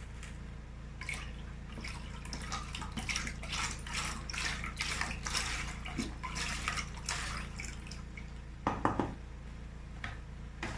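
Milk being poured into a saucepan, splashing and dripping irregularly for several seconds over a low steady hum, followed by a short, louder knock about three-quarters of the way through.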